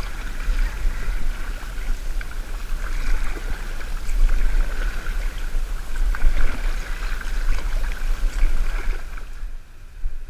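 Kayak paddles dipping and splashing through river water as the boat is paddled along, with wind rumbling on the microphone. The sound drops away sharply near the end.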